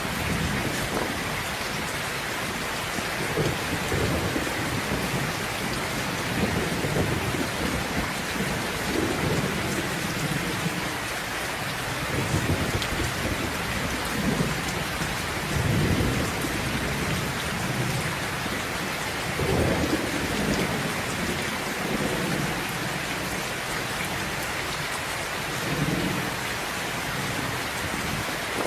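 Steady heavy rain with rolling thunder: low rumbles swell and fade again and again over the constant hiss of the rain.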